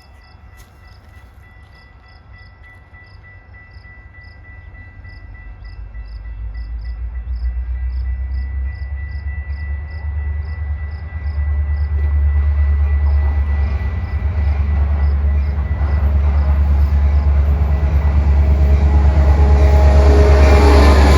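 A train approaching, its low rumble growing steadily louder until it is passing close near the end. Over the first half a quick repeating ding rings about two to three times a second, like a grade-crossing bell.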